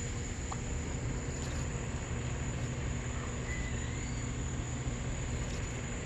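Outdoor ambience: an insect's steady high-pitched trill runs over a low rumble, with a faint short chirp about three and a half seconds in.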